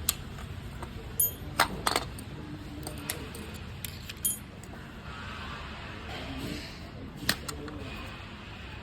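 Scattered sharp metallic clinks and clicks, about six of them, over a steady low rumble.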